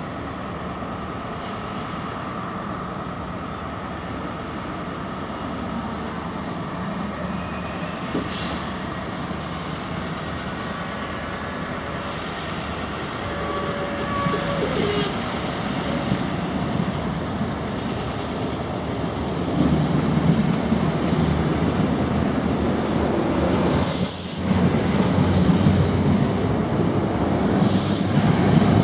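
First Great Western HST (InterCity 125) pulling out of the platform, its Mark 3 coaches rolling past with a steady rumble and a few brief high squeals. The diesel engine grows louder about two-thirds of the way in as the train picks up speed.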